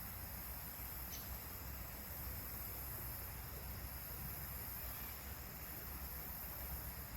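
Steady rushing of a fast, high-running creek, with a low rumble underneath and a faint tick about a second in.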